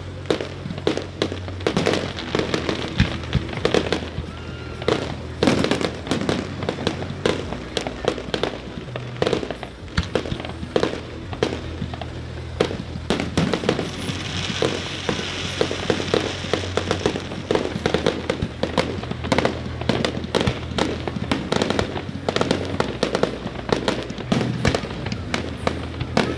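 Fireworks display: a rapid, irregular barrage of shell bursts and bangs, with a hissing crackle about halfway through. Music plays underneath with a steady bass.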